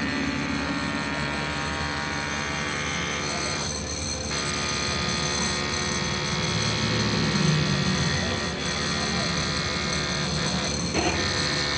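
Machinery running steadily: a dense hum with several steady whining tones, and a higher whine that drops out briefly about four seconds in and comes back.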